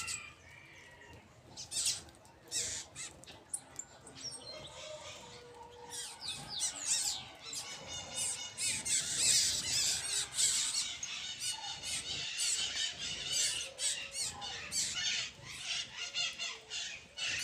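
A flock of birds calling while feeding, with many short, overlapping chirps and calls. It is sparse at first and turns much busier from about six seconds in.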